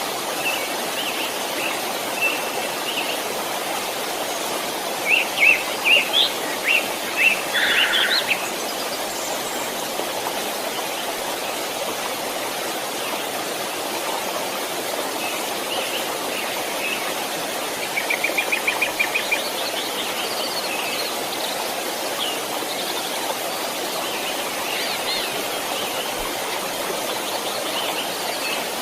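Steady rushing of a small stream, with birds chirping over it: a loud run of chirps about five to eight seconds in, and a fast trill of repeated notes about two-thirds of the way through.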